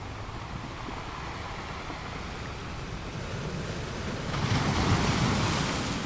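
Ocean surf washing on a beach in a steady hiss, with a wave surging in louder about four seconds in and easing off near the end.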